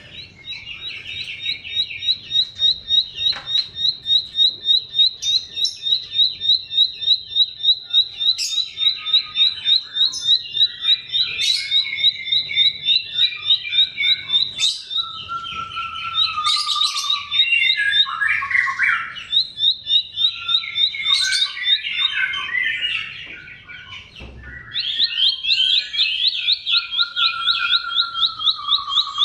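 Bar-winged prinia (ciblek) singing: long runs of fast, high, repeated chirps mixed with lower warbled phrases. The song breaks off briefly about six seconds before the end, then starts again.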